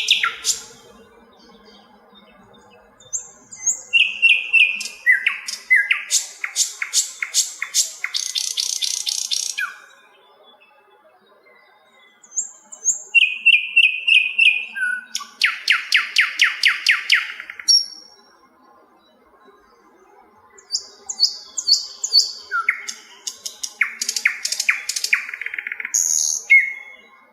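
Sikatan londo singing in three bouts. Each bout opens with short, clear, high whistled notes and runs into a fast rattling trill, with pauses of a couple of seconds between bouts.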